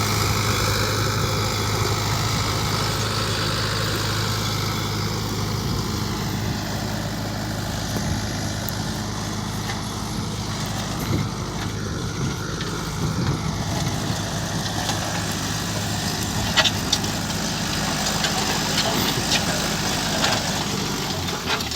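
Sonalika DI 55 RX tractor's 4087 cc diesel engine idling steadily at an even pitch, with a few short clicks in the second half.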